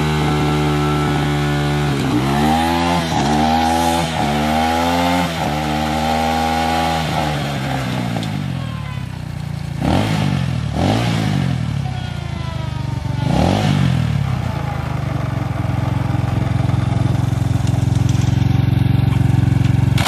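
Apollo 250 dirt bike engine running and being revved up and down repeatedly, then held at high revs. It cuts out suddenly at the very end, in a stop that did not sound good or healthy.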